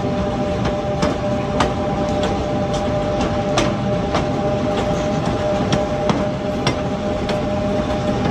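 Narrow-gauge train running behind a steeple-cab electric locomotive: a steady rumble with a constant two-note whine, and sharp clicks every half second or so.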